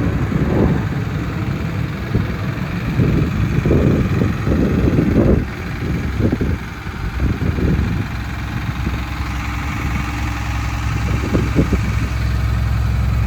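The engine of a 2009 Blue Bird front-engine school bus idles steadily. Irregular bumps and rustling lie over it in the first half.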